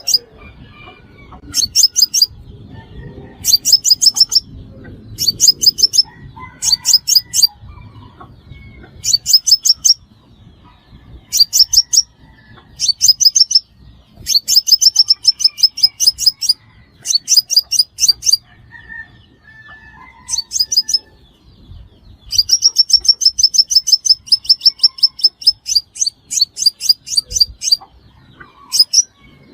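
Sunbird song: short rapid trills of sharp, very high notes, each about a second long, repeated every second or two, with one longer run of trilling past the middle.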